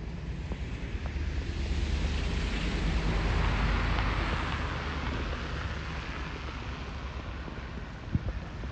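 A vehicle passing on a snowy street: tyre hiss and engine rumble swell to a peak about three to four seconds in, then fade away. A few footsteps thump near the end.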